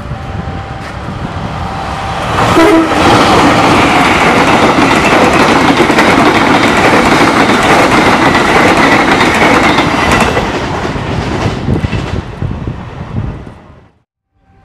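Diesel-hauled passenger train passing close by: a short horn blast about two and a half seconds in as the locomotive arrives, then the loud rumble and clatter of the coaches' wheels over the rails, fading out near the end.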